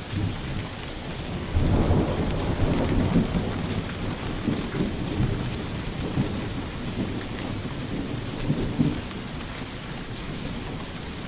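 Steady rain hiss with a low rolling rumble of thunder that swells about a second and a half in, is loudest soon after, and dies away over the next several seconds.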